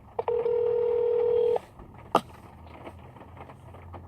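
A phone's electronic call tone: one steady beep held for about a second and a half, then cut off sharply, followed by a single sharp click.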